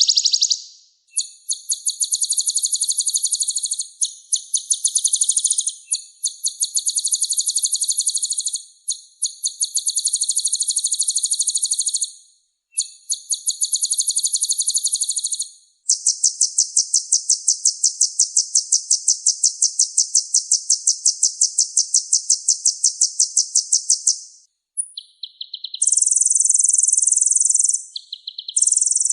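Kolibri ninja (purple-throated sunbird) singing: very high, rapid, buzzy trills in phrases of a few seconds with short breaks, including one long steady trill lasting about eight seconds. Near the end come shorter, changing phrases.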